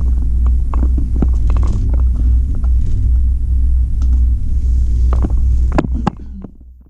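Low rumble of a cable car cabin on its way up, with scattered creaks and knocks from the cabin. The sound falls away suddenly about six seconds in.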